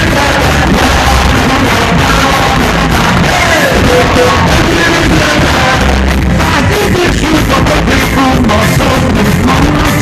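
Live reggae band playing loudly, with bass, guitar and a singer, recorded close to the stage so the sound is loud and distorted.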